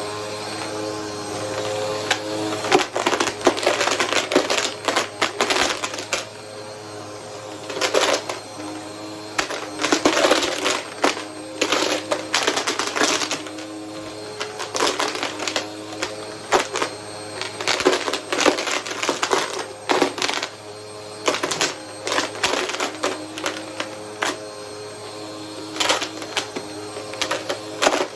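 Vacuum cleaner running steadily while sucking up coins, with irregular bursts of sharp metallic clicking and rattling as the coins are pulled in.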